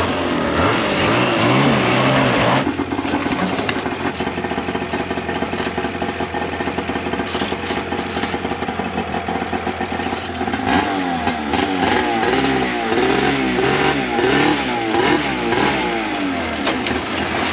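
Engine running, its pitch rising and falling again and again as it is revved, most noticeably in the second half.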